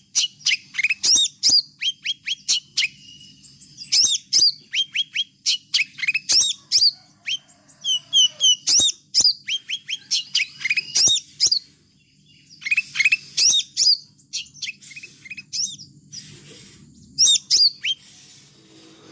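Small songbirds chirping over and over: quick runs of short, sharp, high chirps that fall in pitch, with a brief lull about two thirds of the way through. A faint low steady hum lies underneath.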